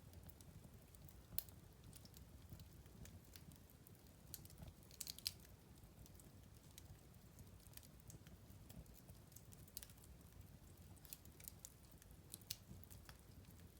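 Wood fire crackling faintly, with irregular small pops and snaps over a low, steady rumble of the flames. A quick cluster of louder pops comes about five seconds in.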